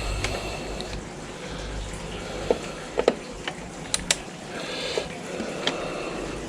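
Scattered sharp clicks and light knocks of small parts being handled while circuit boards are unscrewed, several in quick pairs in the middle of the stretch.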